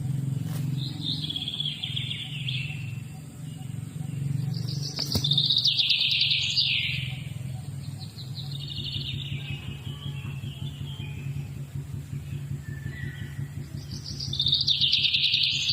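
Songbirds singing in several high, trilled phrases of one to three seconds each, over a steady low hum.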